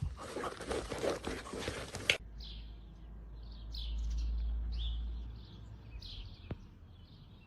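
About two seconds of dense rustling and scratching noise that cuts off suddenly. Then small birds chirp repeatedly in short high calls that fall in pitch, over a low rumble that swells and fades.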